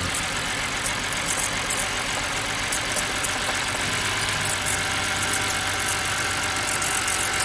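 BMW E90 inline-six engine idling roughly, with faint irregular ticking on top. The rough idle is from a misfire that the owner traces to a bad ignition coil or spark plugs.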